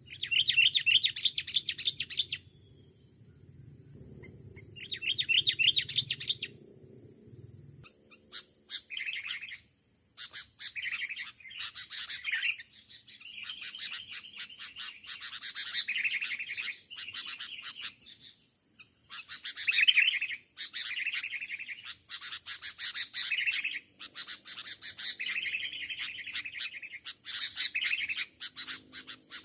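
Sooty-headed bulbuls calling: two long chattering bursts near the start, then a run of short, quick call phrases from about eight seconds on.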